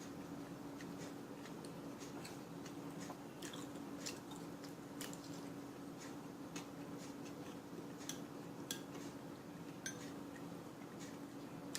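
Faint sounds of a person eating: chewing with scattered light clicks of a utensil on a dish, over a steady low hum.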